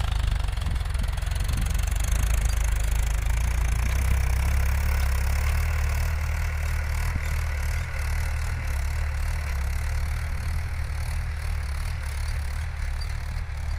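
Mahindra 575 DI tractor's four-cylinder diesel engine idling steadily.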